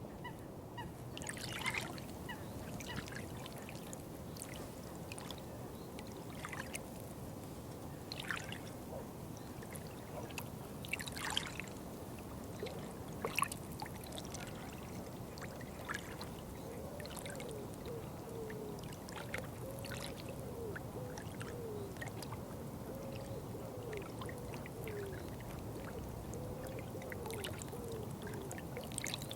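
Water trickling and flowing steadily, with scattered short high chirps. In the second half, a faint series of wavering calls repeats about once a second.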